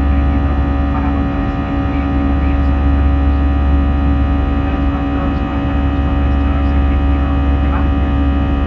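Steady cabin noise inside an Airbus A320 airliner: the jet engines and airflow make a loud, even rumble with a number of steady humming tones over it.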